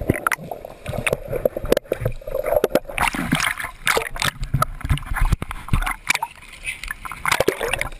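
Seawater splashing and sloshing, with many irregular knocks and bumps and brief, indistinct voices of people moving through the water.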